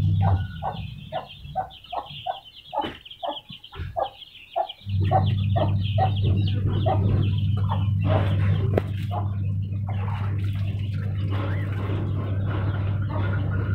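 A bird calling in a rapid run of short, repeated calls, about three a second, over a steady low hum. The hum drops out just after the start and comes back after about five seconds.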